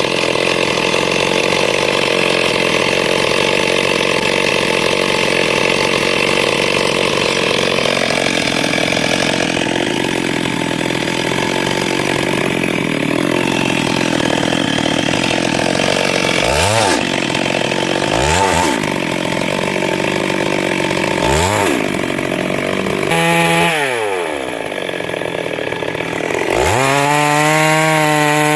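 Two-stroke chainsaw cutting through wood at steady high revs, then three quick revs up and down, dropping to idle, and revving high again near the end.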